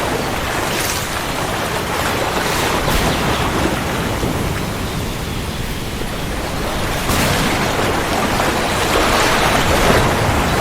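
Steady rain with a low rumble of thunder, swelling a little in the second half.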